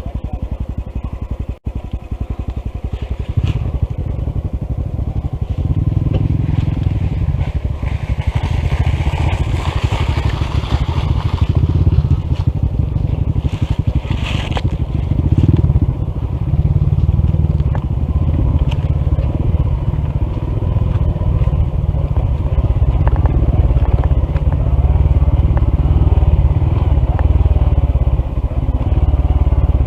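Honda CT125 single-cylinder motorcycle engine running on a rough downhill dirt trail, its steady firing pulses heavy and low. Swells of crunching, scraping noise come several seconds in and again about halfway through. This is the engine that lost power with a faulty piston and misaligned valve.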